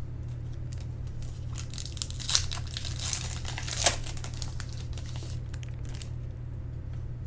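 Foil trading-card pack wrapper crinkling and tearing as it is opened, loudest between about one and a half and four seconds in, over a steady low hum.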